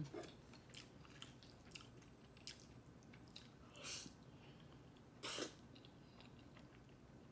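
A person chewing food quietly, with small wet clicks, and two short breathy noises about four and five and a half seconds in.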